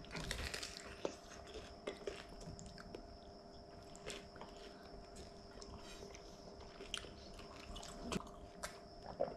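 People chewing and biting crisp fried anchovies (ikan bilis) in sambal: faint crunching with scattered small clicks, over a faint steady hum.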